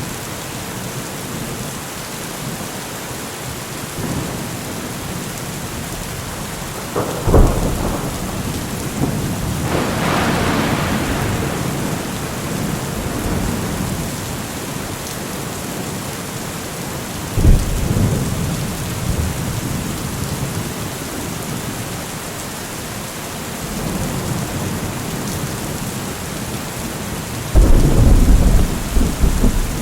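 Steady heavy rain with thunder. Sharp claps come about 7 seconds and 17 seconds in, with a long rolling rumble between them, and the loudest clap falls near the end.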